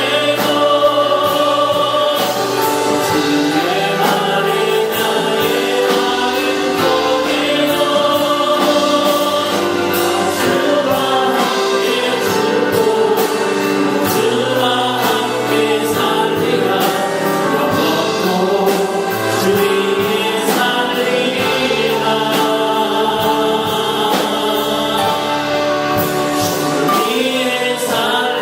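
A group of voices singing a Christian worship song with instrumental accompaniment, at a steady, full level throughout.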